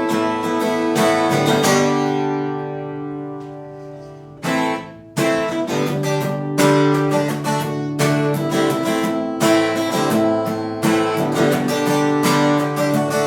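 Acoustic guitar strummed in chords. About two seconds in, one chord is left to ring and fade away, and the strumming picks up again around five seconds in.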